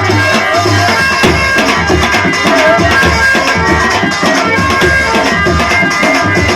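Rajasthani devotional folk song music with a steady hand-drum beat under sustained reed-like tones.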